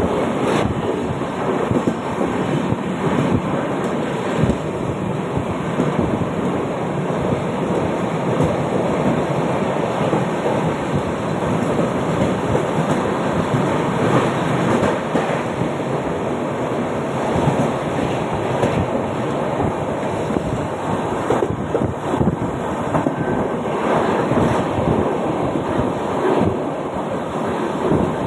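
A Mumbai suburban local train in motion: a steady, dense rumble and rattle with a few scattered sharp knocks.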